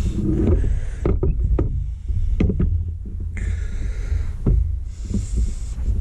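Low rumble of handling noise on a handheld microphone, with scattered clicks and knocks as Lego pieces and the camera are handled.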